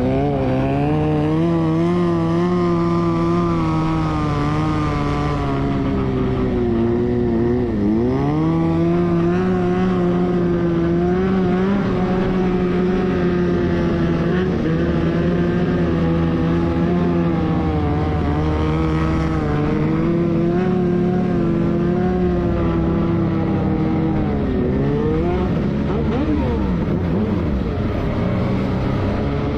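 Motorcycle engine running steadily under way, its pitch wavering with the throttle. The note drops sharply and climbs back about eight seconds in and again near the end, as with a gear change or easing off.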